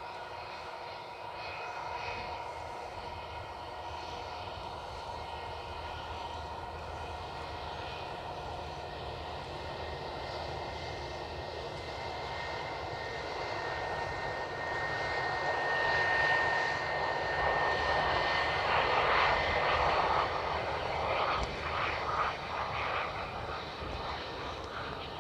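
Jet airliner's engines whining as the aircraft passes, the rush growing louder to a peak about two-thirds of the way through and then easing off.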